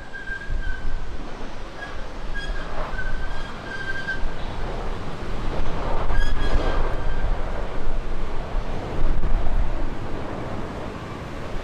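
Boeing 737-500 jet airliner arriving: a low engine rumble that swells toward the middle, with a thin whistling tone on and off, and wind buffeting the microphone.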